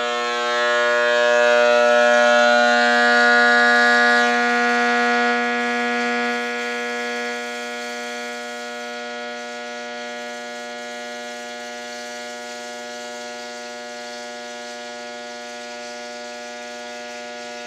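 Rewound microwave oven transformer humming loudly and steadily under a dead-short load, its secondary driving around 900 amps through a 10-penny nail to heat and melt it. The hum steps down quieter about six seconds in and then holds steady.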